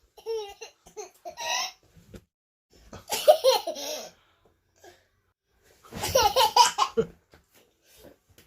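A toddler laughing in three bursts of giggles and belly laughs with short pauses between them.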